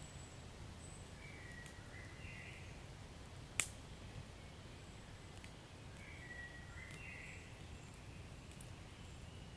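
Wood fire burning in a fireplace: a faint low rumble with scattered small crackles and one sharp, loud pop about three and a half seconds in. Two brief high whistles come through, once about two seconds in and again about six seconds in.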